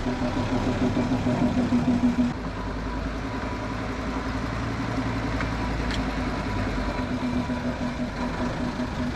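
Forest-railway train running, its small locomotive's engine giving a steady pulsing note; about two seconds in the sound shifts to a lower rumble, and the pulsing returns near the end.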